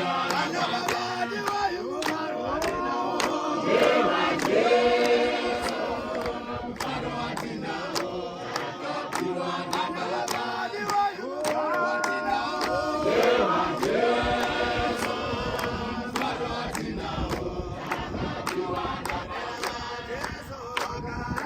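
A congregation of men and women singing together in chorus, with a sharp, steady quick beat running under the song.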